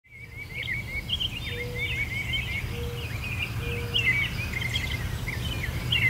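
Many birds chirping and whistling in quick, repeated short phrases over a low steady rumble, with a few short, low hooting notes in between. The sound fades in from silence at the start.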